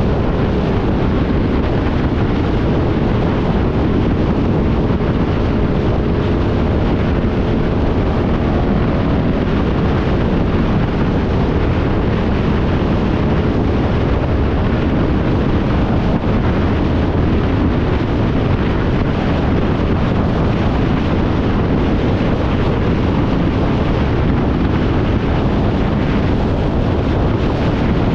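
Loud, steady wind rush over the microphone of a moving motorcycle, with the motorcycle's engine running underneath.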